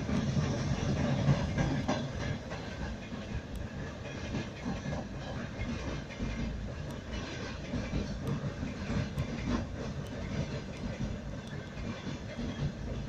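Train wheels rolling on rails: a steady rumble with irregular sharp clicks as the wheels cross rail joints and points.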